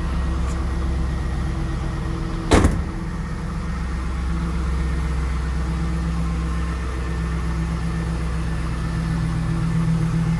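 2001 Pontiac Trans Am's LS1 V8 idling steadily on a cold start. One loud thump about two and a half seconds in, typical of the car door being shut.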